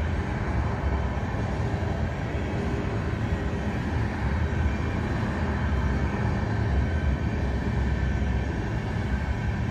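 Steady, deep rumble of a moving train, continuous and unbroken, with a faint high ringing above it.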